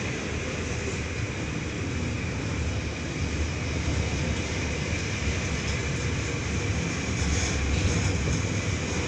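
Freight wagons of a long steel train rolling slowly past, a steady rumble of wheels on rail.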